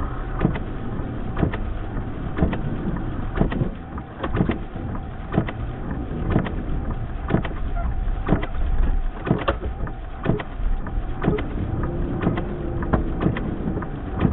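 Blizzard wind and a running vehicle heard from inside a truck cab: a steady low rumble, with many sharp clicks and taps spread unevenly throughout.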